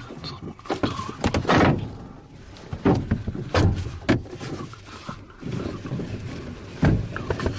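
Handling noises in a glider cockpit: a string of irregular clicks, knocks and short rustles, with a low rumble underneath.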